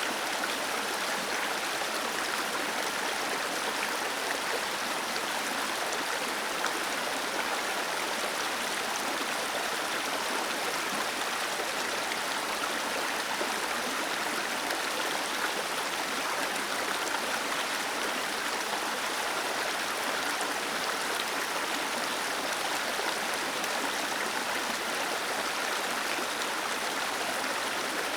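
Small waterfall cascading over stones, a steady even rush of falling and splashing water.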